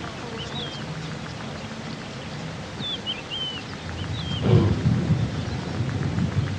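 Small birds chirping in short curling whistles over a low rumbling noise, which swells about four and a half seconds in with a brief falling tone.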